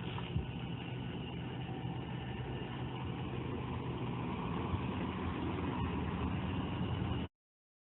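2017 Honda Civic's engine idling steadily in a garage, with the headlights on; it cuts off suddenly near the end.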